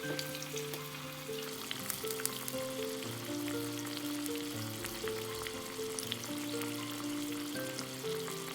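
Oil sizzling and crackling with small scattered pops as food fries in a ttukbaegi earthenware pot, under background music with a slow melody and bass line.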